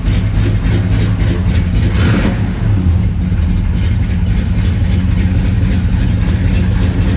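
1968 Chevelle SS's 396 big-block V8 running just after a cold start, a steady low rumble with a brief louder burst about two seconds in.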